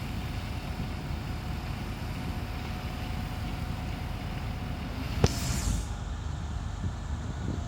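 Street sweeper truck running steadily with a low engine drone. About five seconds in there is a sharp click followed by a short hiss of air lasting under a second.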